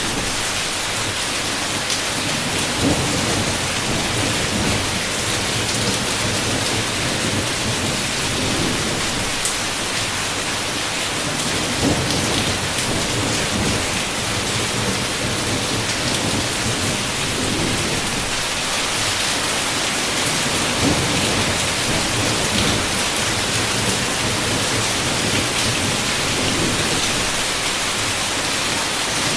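Heavy rain falling steadily on a window, a dense, even hiss, with occasional low rumbles of thunder.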